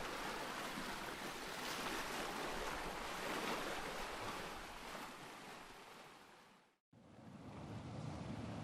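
Ocean surf washing in a steady hiss, swelling and then fading out to a brief silence just before the end. A second surf recording then fades in, heavier in the low rumble, with some wind noise.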